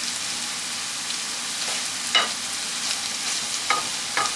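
Pork frying in a pan with a steady sizzle. A metal utensil clinks against the pan about two seconds in and twice more near the end.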